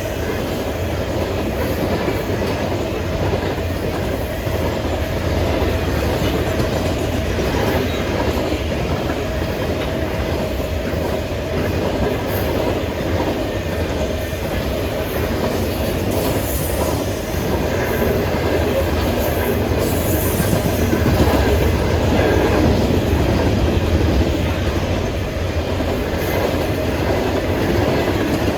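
Freight train rolling past with a steady rumble, its car wheels clicking over the rail joints.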